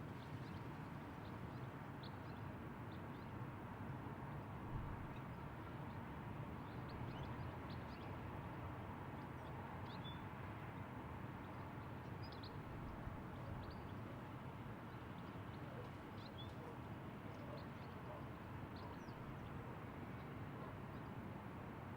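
Faint outdoor ambience: a steady low rush of background noise with scattered short, high bird chirps.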